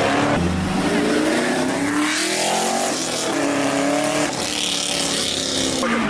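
A car engine revving hard as the car accelerates away, its pitch climbing about two seconds in, dipping and then climbing again.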